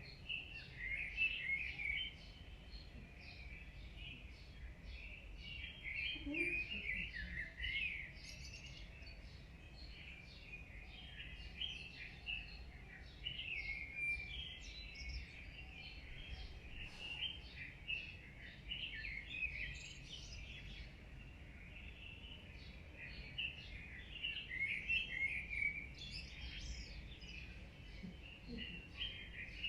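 Many birds chirping continuously in short rapid notes, swelling in busy clusters every few seconds, over a low steady rumble.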